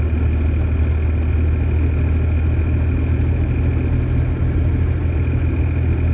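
Steady drone of a car driving through fresh snow, heard from inside the cabin: a low engine and road hum with a thin, steady high tone above it.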